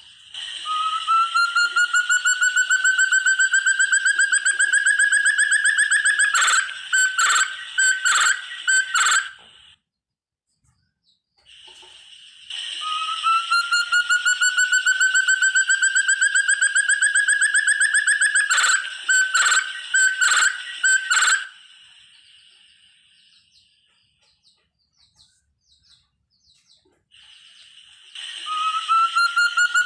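Forest partridge (puyuh hutan, locally 'burung terung') calling: a long, rapidly pulsed trill rising slowly in pitch, ending in a few sharp broken notes. The phrase repeats three times, about every 12 to 15 seconds.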